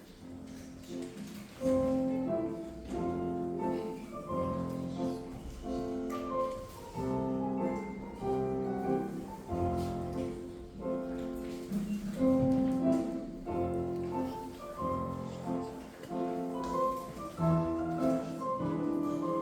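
Classical piano music in a measured, regular rhythm of chords and melody, as used to accompany a ballet class exercise. It is soft at first and grows louder about a second and a half in.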